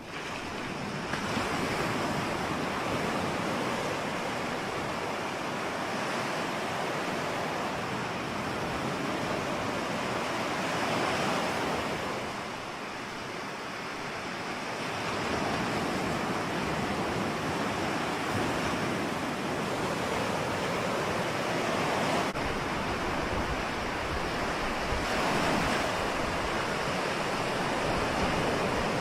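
Ocean surf: waves washing in continuously, swelling and easing every several seconds, with a low rumble joining past the middle.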